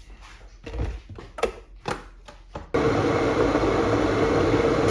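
A few light knocks and clicks, then, about three seconds in, a steady whirring hum of a running kitchen appliance starts abruptly and holds level.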